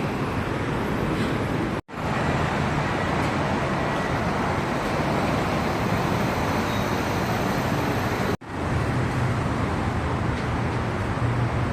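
Steady city road traffic: a continuous noise of passing vehicles with a low engine rumble that swells in the last few seconds. The sound cuts out sharply twice, near two seconds in and again past eight seconds, at edits.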